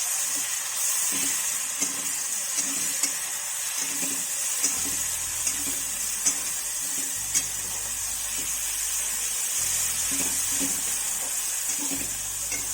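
Onions, ginger-garlic paste and spices sizzling in hot oil in a kadai as they are stirred, with a spoon clicking against the pan several times.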